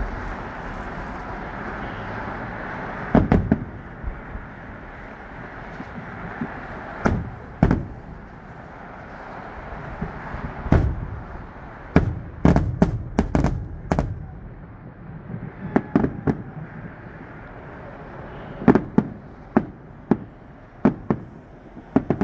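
Aerial fireworks bursting: a string of sharp bangs at irregular intervals, with a rapid flurry about halfway through and more bangs near the end, each followed by a short echo.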